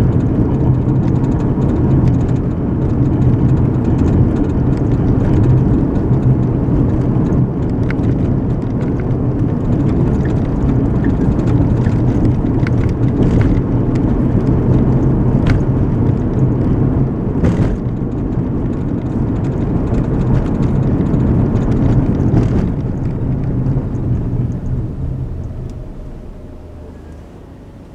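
Road and engine noise heard inside a moving car, a steady rumble with a low hum and a few faint ticks. It dies down sharply about 25 seconds in, as when the car slows down.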